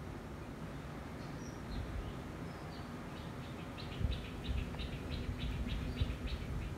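A bird calling: a few thin high whistles, then a rapid run of short chirps, about four a second, from about halfway in until near the end. A low steady rumble runs underneath.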